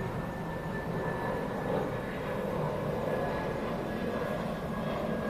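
Steady engine rumble with a faint, thin high tone held over it.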